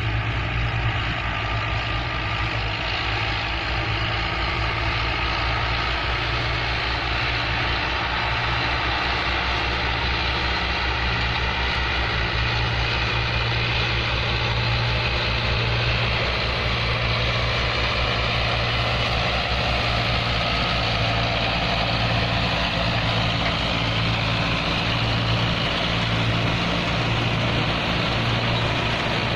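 Tractor engine running steadily, with a steady rush of working machinery over it: a tractor-drawn straw reaper in operation.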